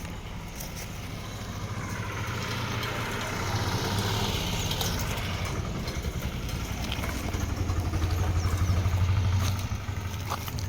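A motor engine running with a low, steady hum that grows louder, is loudest about nine seconds in, then drops off sharply.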